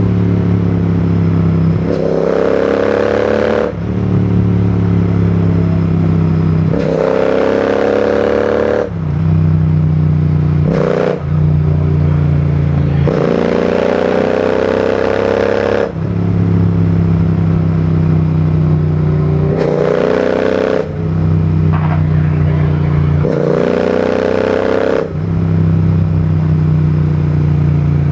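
Royal Enfield Continental GT 650's 648 cc parallel-twin engine and exhaust under way, the throttle opened and eased in repeated surges. The sound dips briefly every four to five seconds, and between surges the pitch sinks slowly.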